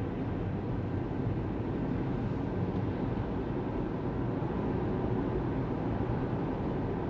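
Steady road noise of a Tesla Model 3 on the move: an even rumble of tyres on the road with wind, and no engine sound from the electric drive.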